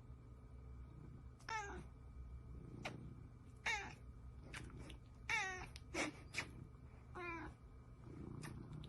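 A cat meowing four times in short calls, roughly two seconds apart, with a few faint clicks in between.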